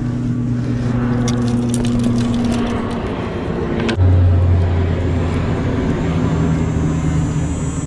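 A motor engine running steadily, with a low drone that drops abruptly to a lower pitch about four seconds in.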